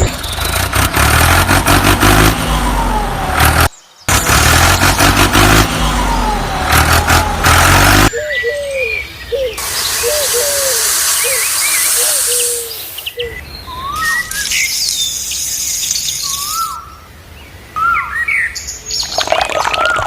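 Background music for about the first eight seconds, then a series of short, high bird chirps over a hiss.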